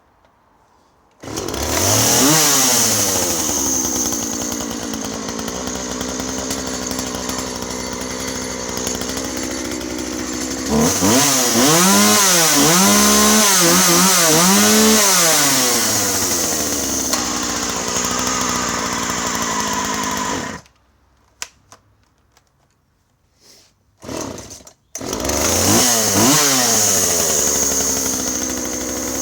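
Husqvarna 136 two-stroke chainsaw starting about a second in and running, then revved up and down several times. It runs on and is shut off suddenly. After a couple of brief sputters it starts again and runs.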